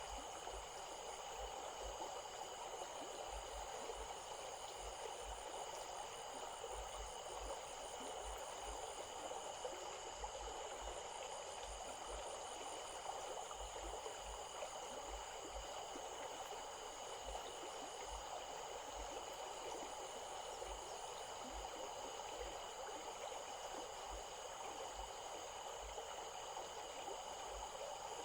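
A small stream flowing steadily over rocks at dusk, with an even rushing sound. Several steady high-pitched trills and a fast, high pulsing that comes and goes run over it, typical of evening insects.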